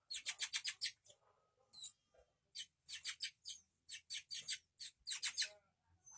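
Oriental magpie-robin nestlings begging for food: quick runs of high, scratchy squeaks in three clusters.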